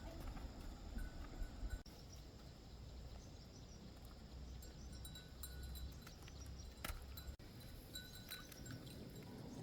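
Quiet outdoor ambience: a steady low rumble with scattered short, faint high chirps.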